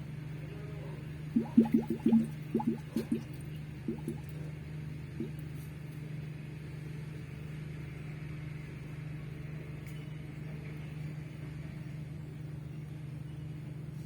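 Isuzu truck's engine idling steadily while air bubbles up through the coolant in the water tank, with a run of about a dozen quick glugs from roughly one to five seconds in. The uploader takes the bubbling for an air compressor problem.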